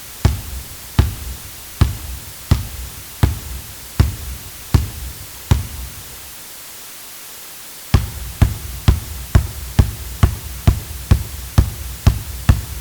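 Basketball dribbled on a hard court: steady bounces about every three-quarters of a second, stopping about five and a half seconds in. About two seconds later the dribbling resumes faster, a little over two bounces a second.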